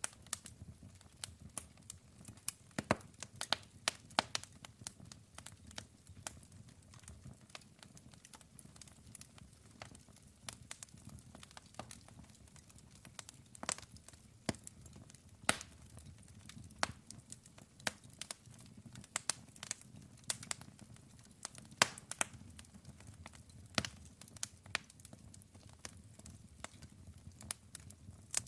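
Wood fire burning with frequent irregular crackles and pops over a low steady rumble of the flames.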